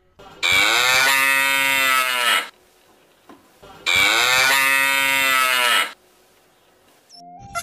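Cow mooing: two long calls of about two seconds each, with a short pause between them.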